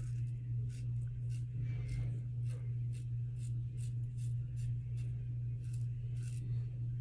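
Karve safety razor with a Gillette Super Thin blade taking short strokes through lathered stubble, about two to three crisp scrapes a second. Under it runs a steady low electrical hum from the bathroom light.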